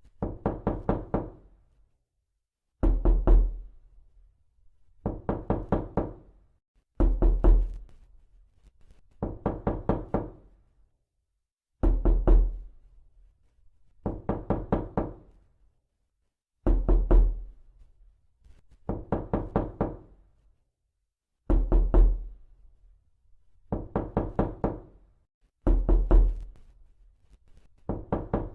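Realistic knocking sound effect: bursts of four or five quick knocks, repeating about every two seconds with short pauses between. Some bursts open with a heavier, deeper knock.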